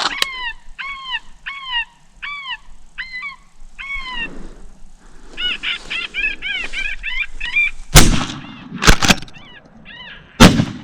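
Repeated honking calls, about two a second, then a quicker run of them, followed near the end by four loud shots.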